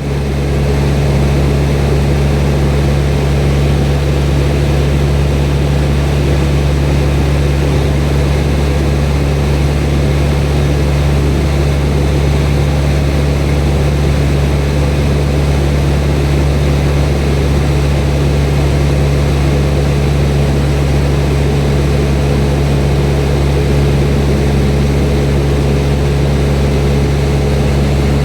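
Cessna 172 piston engine and propeller in level flight, a loud, steady drone that holds one pitch throughout.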